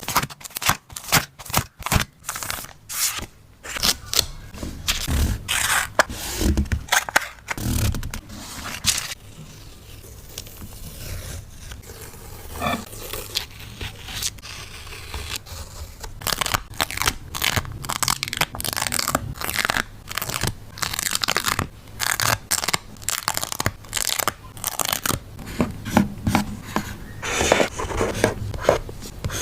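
Close-miked paper being torn, crinkled and scraped while working in an art journal: quick, uneven crunchy strokes, with a quieter stretch in the middle.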